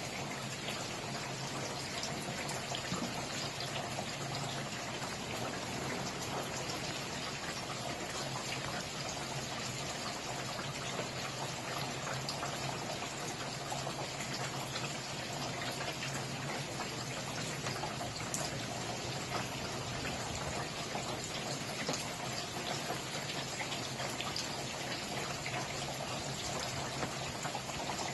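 Steady rain falling, a dense even hiss with many small drop ticks, some drops splashing or running like water pouring.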